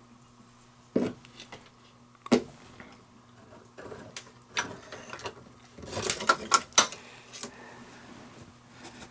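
Metal knocks and clinks from handling the cap and strainer basket of a sailboat engine's raw-water strainer as they are taken off and lifted out: two sharp knocks, then scattered clicks and a quick cluster of clinks and rattles about two thirds of the way in, over a faint steady hum.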